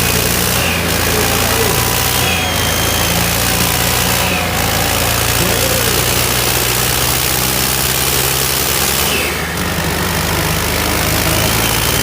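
Tractor diesel engines running steadily, from a Farmtrac 60 and John Deere 5210 tug of war.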